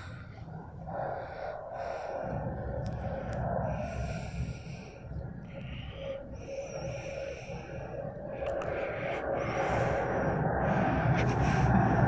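Glasgow Subway Stadler train approaching through the tunnel into the station, its low rumble growing louder over the last few seconds, with repeated short bursts of hissing.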